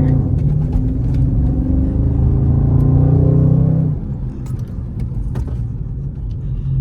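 Dodge Charger Scat Pack's 6.4-litre HEMI V8 accelerating hard in sport mode, its note rising steadily for about four seconds, then dropping away as the throttle comes off and the engine runs on more quietly.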